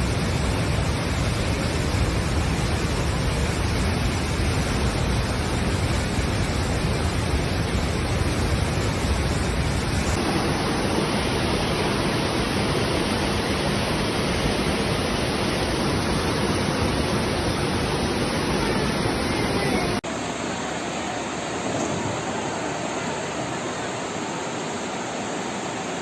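Floodwater rushing, a loud steady noise that changes abruptly twice, about ten and twenty seconds in.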